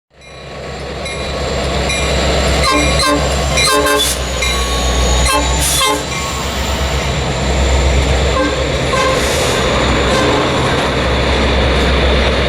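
A diesel-hauled train passing close, with a steady engine rumble and rail noise. The locomotive's horn sounds several short blasts about three to six seconds in.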